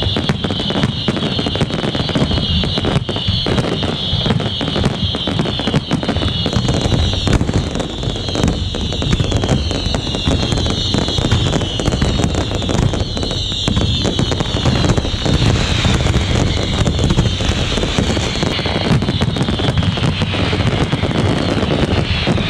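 Fireworks display in a dense continuous barrage: rapid overlapping bangs and crackle, with many whistling shells whose whistles fall in pitch. The whistles thin out after about fifteen seconds while the bangs go on.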